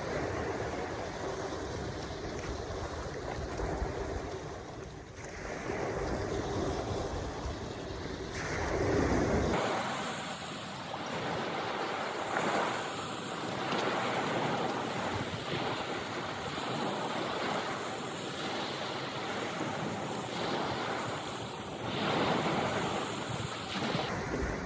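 Waves washing in and wind on the microphone, a steady rushing noise that swells and eases, louder twice.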